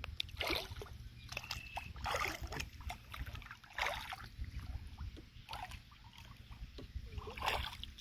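Kayak paddle strokes in calm water: irregular small splashes and drips every second or two, over a low rumble.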